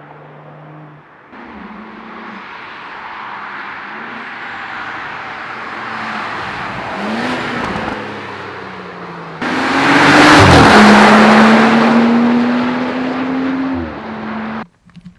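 Cars driving and revving in several edited clips, engine notes rising and falling in pitch as they pass. The loudest clip starts abruptly about nine seconds in with a car sweeping past under acceleration, and the sound cuts off suddenly near the end.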